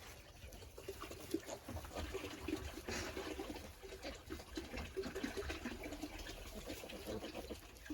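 A sow and her newborn piglets grunting softly, with many short, low grunts and snuffles close together.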